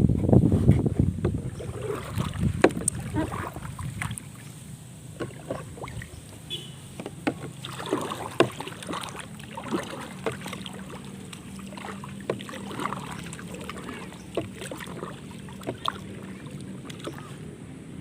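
Small homemade styrofoam-and-fibreglass boat on the water, with irregular splashes and knocks. Wind buffets the microphone in the first couple of seconds.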